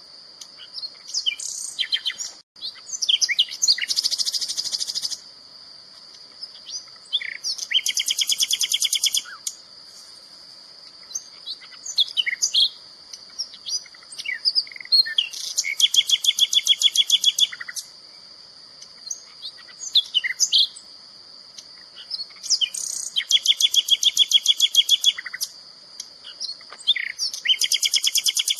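A songbird singing varied chirping phrases, five times breaking into a fast, even trill of about one to two seconds, over a continuous steady high-pitched tone.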